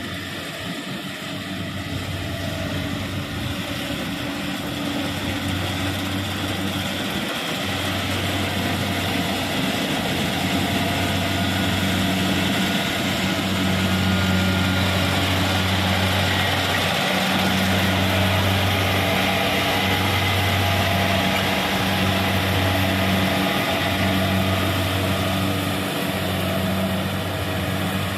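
Kubota rice combine harvester running with a steady mechanical hum, getting louder over the first twelve seconds or so and then holding.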